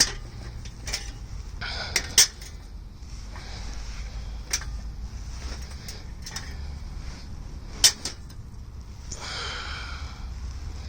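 Sharp metallic clinks and clanks of a socket wrench and extension working at an oil drain plug, a handful of separate strikes over a low steady hum.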